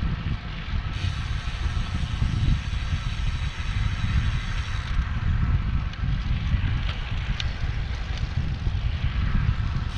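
Low, gusting rumble of wind on the microphone of a handheld camera while riding a road bike, mixed with road noise.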